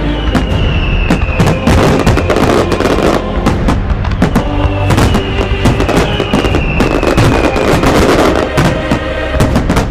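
Fireworks going off in a dense run of bangs and crackles, mixed with music that has steady tones and a slowly falling tone repeating every few seconds.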